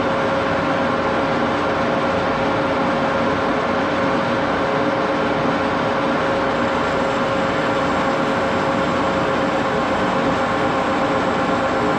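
1941 Axelson gear-head lathe running steadily, a constant whine over an even mechanical noise that does not change.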